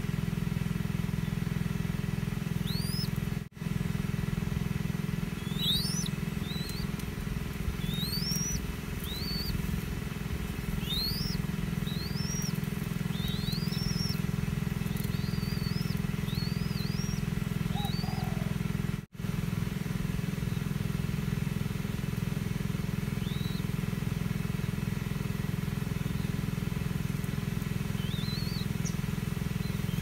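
Small birds chirping: a run of short, quick rising high chirps, many in the first half and only a few later, over a steady low rumble.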